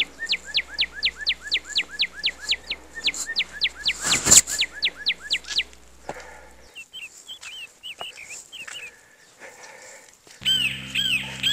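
A bird singing a fast run of repeated descending whistled notes, about four a second, for about six seconds. A single thump comes about four seconds in, and softer scattered chirps follow.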